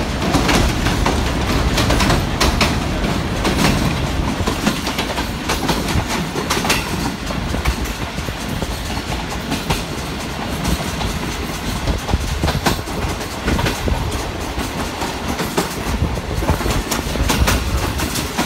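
Pakistan Railways passenger coach running at speed, heard from its open doorway: a steady rumble and rush of noise with irregular clacks of the wheels over rail joints.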